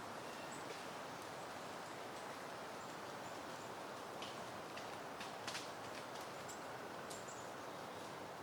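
Soft steady wind rustling through foliage, with faint high bird chirps now and then and a few sharp clicks about five and a half seconds in.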